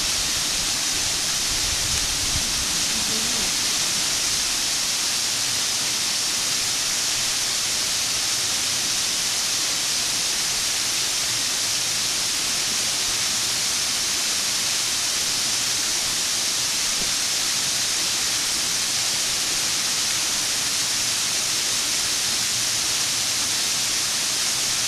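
A 23-metre waterfall, its falling water making a steady, even noise that does not change.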